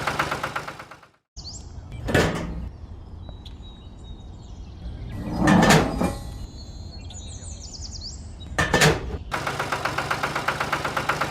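A small engine running with a fast, even pulse, which fades out about a second in and comes back about two seconds before the end. In between is a quieter stretch with a few swelling whooshes and faint chirps.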